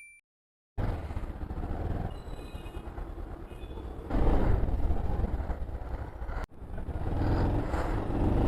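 Motorcycle engine running under way, mixed with road and wind noise, heard from on the bike. It starts after a short silence that follows a fading ringing tone, and the sound drops out briefly about six and a half seconds in.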